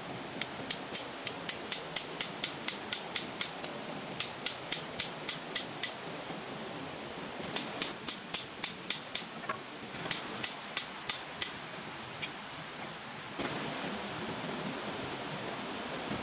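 Rapid runs of sharp knocks, a tool striking wood about four times a second, in four bursts with short pauses between. A steady rushing hiss runs underneath and grows louder near the end.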